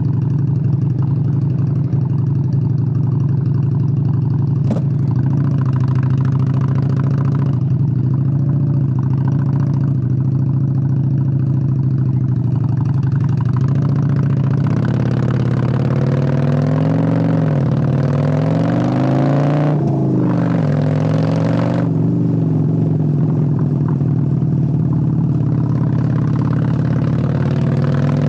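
Honda Steed 600 V-twin motorcycle engine running at a steady pitch, then about halfway through revving up and easing off a few times, its pitch rising and falling as it pulls away, before settling back to a steady run. A single sharp click sounds about five seconds in.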